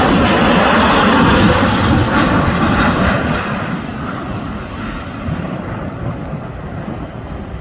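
Airplane engines passing by, a loud steady rushing that fades after a second or two as the aircraft moves away, the high end dying first.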